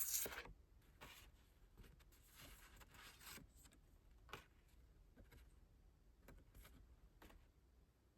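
Quiet rustling and light taps of a compact-version K-pop album's paper and plastic packaging being handled, with a louder rustle at the very start.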